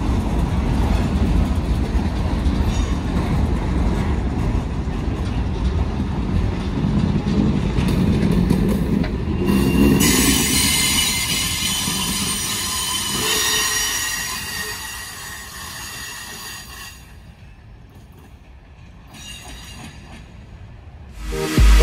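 Passenger cars and boxcars of a passing train rolling by, with steel wheels rumbling and clacking on the rails. About halfway through, high-pitched wheel squeal joins in, and the sound then fades as the train moves away.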